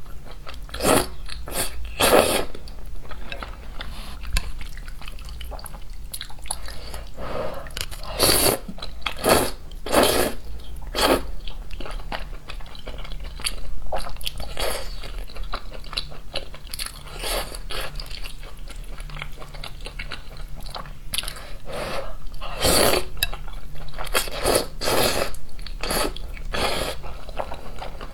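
A person eating close to the microphone, biting and chewing with crisp crunches at irregular moments. These are mukbang eating sounds.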